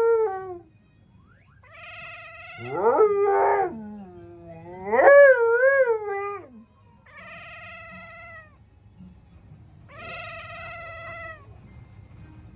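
Dog howling at a siren in a series of long, wavering howls, each a second or so long. The loudest two rise and then waver. Fainter, higher-pitched howls come between them.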